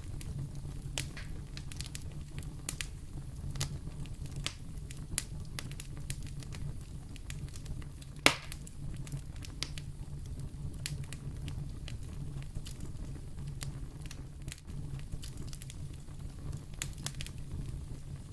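Fire burning in a fireplace, crackling with scattered small pops over a steady low rumble; one sharper, louder pop about eight seconds in.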